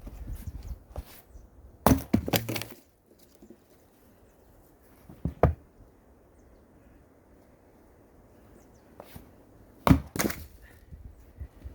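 Axe blows splitting firewood: three main strikes about 2, 5½ and 10 seconds in, the first and last followed by a brief crackle of wood splitting and splintering. The firewood is knotty, which makes it hard to split.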